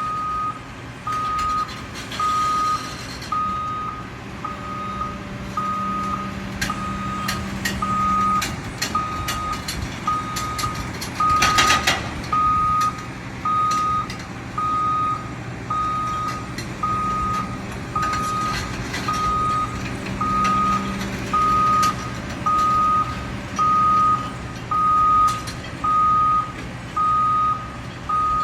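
Truck reversing alarm beeping about once a second, one steady high tone, over the truck's engine running. About twelve seconds in, a short louder burst cuts across the beeping.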